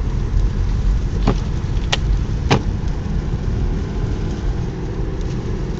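Car driving up a snowy mountain road, heard from inside: a steady low road and engine rumble, with three short sharp clicks between one and two and a half seconds in.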